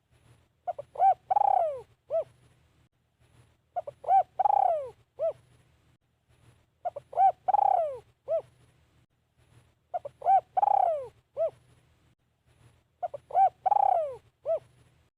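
Spotted dove cooing. It repeats the same phrase five times, about every three seconds: two quick short coos, a longer coo that falls in pitch, then one short coo.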